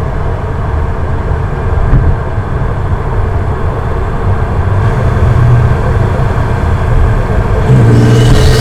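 Toyota Supra's turbocharged engine, breathing through an aftermarket Armaspeed intake, running with a steady deep rumble. It gets louder near the end, with a hiss coming in at the very end.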